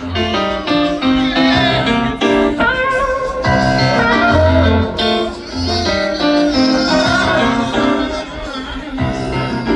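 Band music: guitar lines over a bass line.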